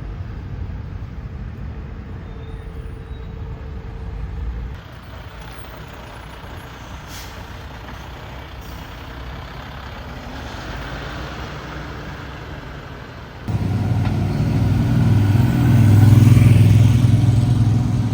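Road traffic rumbling, with a heavy vehicle's engine starting up loud and close about three-quarters of the way in and peaking a couple of seconds later.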